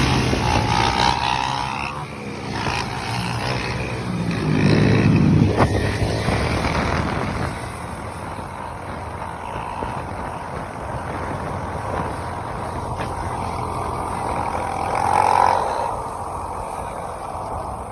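Motor vehicle noise: engines running on the road, with a louder swell about four to seven seconds in.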